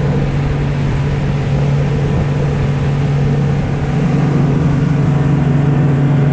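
Boat motor running steadily at cruising speed, a constant low drone with wind and water hiss, a little louder after about four seconds.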